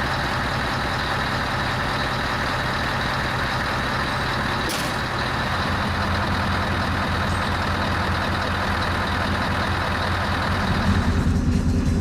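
Heavy truck's diesel engine running at idle, a steady low drone under a constant mechanical hum and hiss, with one sharp short click about five seconds in. Near the end the sound turns to a lower, heavier drone.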